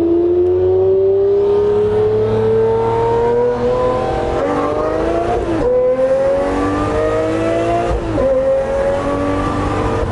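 Straight-piped Lamborghini Murcielago V12 with a Fabspeed exhaust accelerating under load. Its note climbs slowly in pitch and drops sharply twice, about six and eight seconds in, as the automated clutch shifts up a gear.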